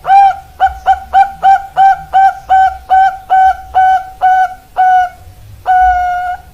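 Zebra dove (perkutut) cooing: a quick run of about fourteen short coos, roughly three a second, then one longer held coo near the end.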